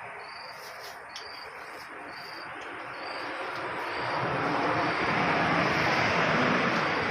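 An insect, likely a cricket, chirps steadily, a short chirp repeating a little more than once a second. Over it a vehicle passes on the road, its rushing tyre and engine noise swelling from about three seconds in to the loudest sound, then easing off at the end.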